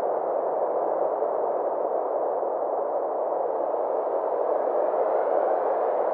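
Synthesized space ambience: a steady wash of filtered noise in the middle range, with a faint higher layer that swells slightly over the last couple of seconds.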